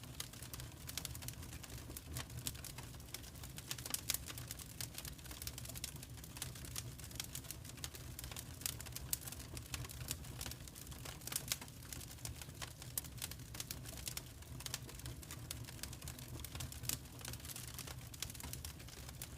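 Fire crackling in a fireplace: irregular sharp snaps and pops over a low steady rumble.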